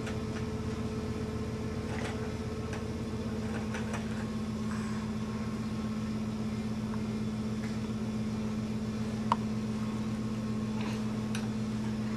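A small motor humming steadily, with scattered light clicks and one sharper click about nine seconds in.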